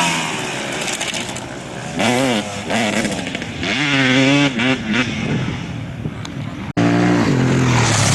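Off-road motorcycle engines revving up and down as bikes ride through, the pitch rising and falling several times. A sudden cut about two-thirds of the way in switches to another bike's engine running more steadily.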